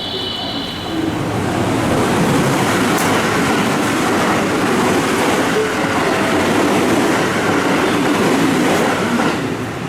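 Electric commuter train running through the station: loud rumble and rail clatter that builds about a second in, holds steady, and drops away near the end.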